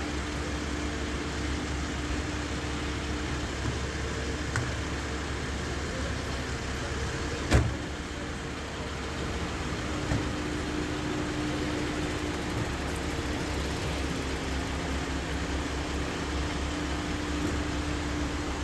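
An engine running steadily at idle, with a steady low rumble and a couple of even tones. A single sharp knock comes about seven and a half seconds in.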